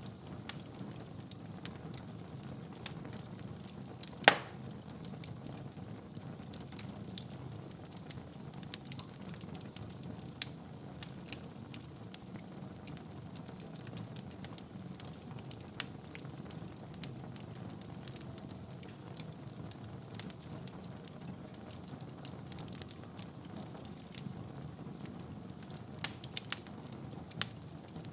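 Wood fire crackling in a fireplace: a steady low rustle of flames with scattered sharp pops. One loud pop comes about four seconds in, and a quick run of pops comes near the end.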